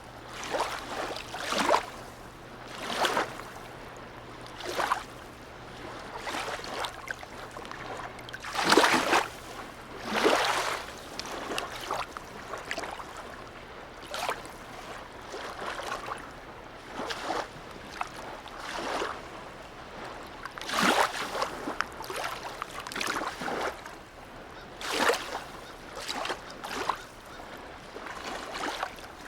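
Small sea waves lapping and splashing in a harbour, in irregular slaps every second or two, the loudest two about nine and ten seconds in. A faint low steady hum lies under the first twelve seconds or so, then stops.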